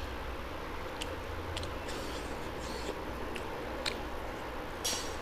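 A person chewing food close to the microphone, with several short, sharp wet mouth clicks spread unevenly over a steady low background hum.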